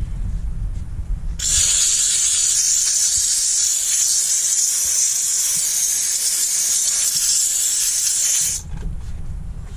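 Dupray Neat canister steam cleaner's nozzle jetting steam with a loud, steady hiss that starts about a second and a half in and cuts off sharply near the end, as the trigger is pressed and released.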